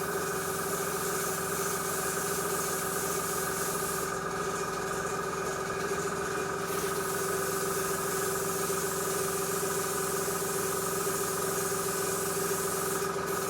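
Small airbrush compressor running steadily with an even mechanical hum, under the hiss of the airbrush spraying paint; the high hiss thins out for a couple of seconds about four seconds in.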